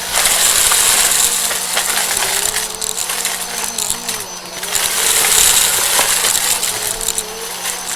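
Vacuum cleaner running during fast vacuuming: a steady motor hum and airflow hiss, with a pitch that wavers as the cleaner is pushed back and forth, and many small clicks and rattles throughout.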